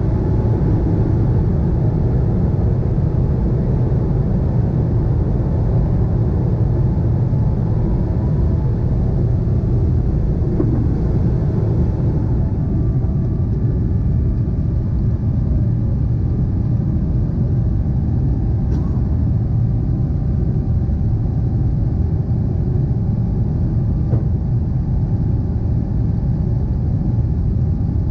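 Steady low jet-engine rumble from a Boeing 777-300ER's GE90-115B engines, holding level throughout.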